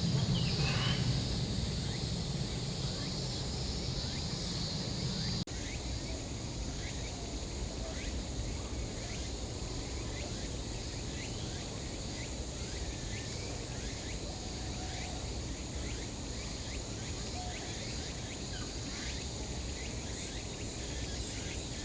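Insects droning steadily at a high pitch, with faint scattered chirps. A low rumble stops abruptly about five and a half seconds in.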